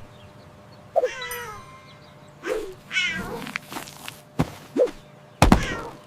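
A cat meowing three or four times, short calls with falling pitch, with a loud thump near the end.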